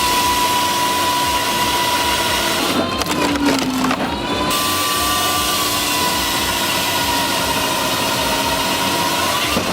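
Firewood-processing machine running and working through wood: a steady high whine over a dense hiss. It breaks up and dips in pitch for a moment about three to four seconds in, then steadies again.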